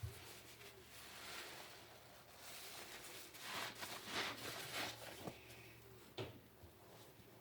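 Wet car sponge being squeezed and worked in soapy water, squelching and rustling in a run of bursts through the middle. A few dull knocks at the start and about six seconds in, over a faint low hum.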